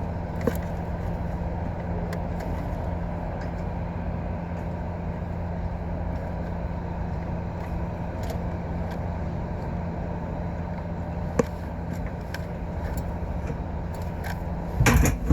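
Steady low machine hum with a few sharp clicks, and a louder clatter near the end.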